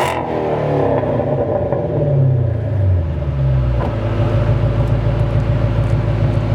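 Chrysler 300 SRT8's 6.1-litre Hemi V8 through Flowmaster mufflers, coming down from a rev right at the start. The revs fall away over about four seconds, then settle into a steady, pulsing idle.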